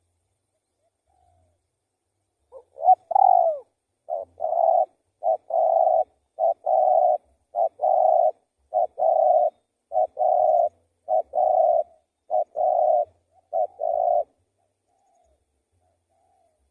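Spotted dove cooing. One curving opening note is followed by about nine repeated phrases, each a short coo then a longer one, at a steady pace of roughly one phrase a second.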